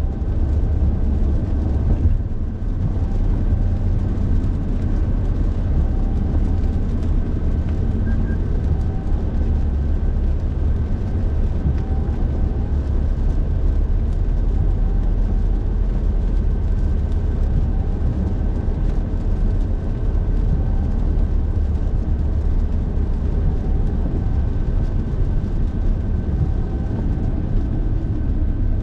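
Steady road and engine noise of a car driving: a continuous low rumble with a faint, steady high whine above it.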